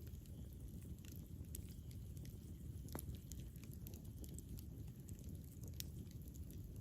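Campfire burning: a low steady rumble of the flames with irregular crackles and sharp pops of burning wood, a few louder snaps about three seconds in and near the end.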